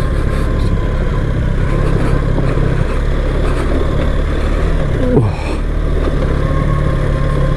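BMW R 1300 GS motorcycle's boxer-twin engine running at steady revs under way.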